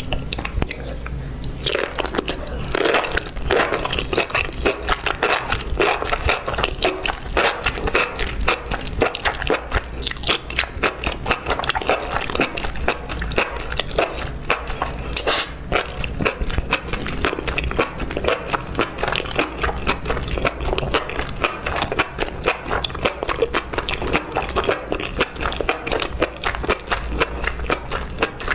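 Close-miked chewing of enoki mushrooms coated in thick red chili sauce: rapid wet clicks and smacks of the mouth, several a second.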